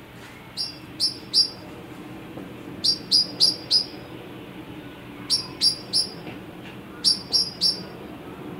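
A bird calling in quick runs of three or four short, sharp, high chirps, each chirp dropping slightly in pitch, with a new run every couple of seconds. A low steady hum sits underneath.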